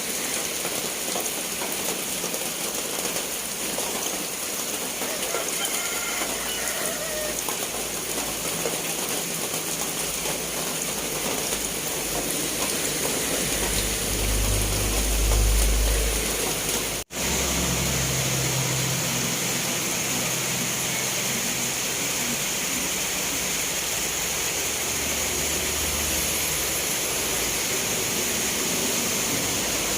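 Steady rain falling, a continuous hiss. A low rumble swells about 13 to 16 seconds in, and the sound drops out for an instant just after before the rain carries on.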